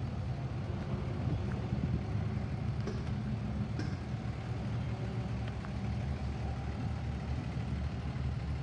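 A truck engine idling steadily, a low even rumble.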